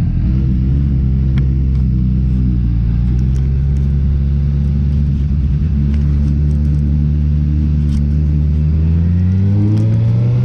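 Motorbike engine running steadily at idle close by, its pitch rising near the end as it revs.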